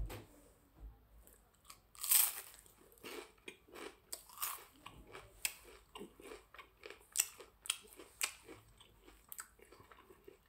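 A person chewing a battered Chinese-takeaway chicken ball close to the microphone, with crunchy bites of the crispy batter; the loudest crunch comes about two seconds in, then irregular chewing crunches follow.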